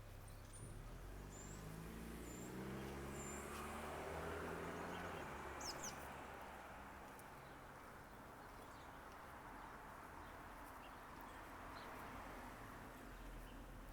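Faint outdoor ambience with short, high bird chirps over the first few seconds and another call about six seconds in. Under them a vehicle passes, its engine hum rising in pitch and swelling about four to five seconds in, then fading.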